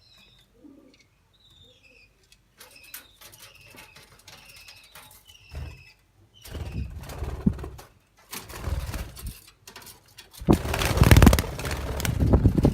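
Budgerigars chirping in short, falling calls, then loud bursts of rustling noise that grow louder toward the end.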